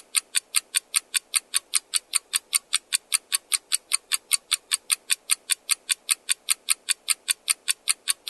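Countdown-timer clock-ticking sound effect: a steady, even run of sharp ticks, about four or five a second.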